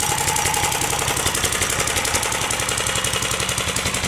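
Modified 13-horsepower Honda single-cylinder engine, tuned to about 23 horsepower, running steadily with an even, rapid pulse through a modified muffler.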